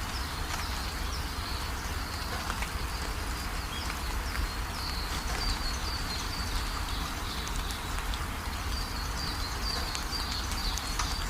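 Steady rain, with runs of short, high chirps that drop in pitch, several a second.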